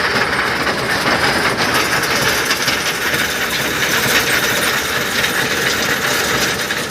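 Tractor-drawn stone picker machine running, with a steady, dense rattling clatter over the engine.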